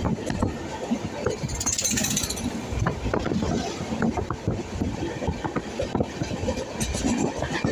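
Passenger train running, the carriage giving a steady rumble full of irregular knocks and rattles, with a brief hiss about two seconds in.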